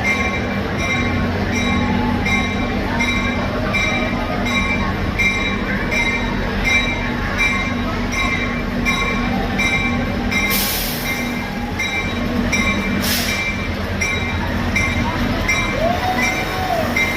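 EMD FL9 diesel locomotive running with its train, with a steady low engine drone. A regular ringing pulse, a little under twice a second, sounds over it and stops about ten seconds in. Two short hisses of air come near the middle.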